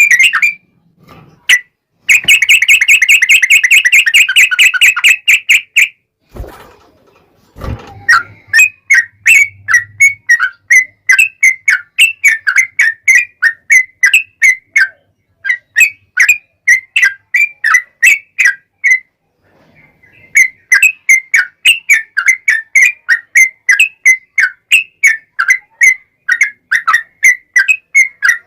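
Yellow-vented bulbul (trucukan) singing loudly. First comes a fast trill lasting about four seconds, then two short knocks, then a long run of quick repeated chirps at about three a second, broken by a short pause a little past halfway.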